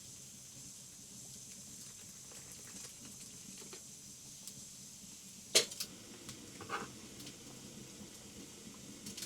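A sharp clack about halfway through, followed at once by a lighter knock and then a short clatter, over a faint steady hiss.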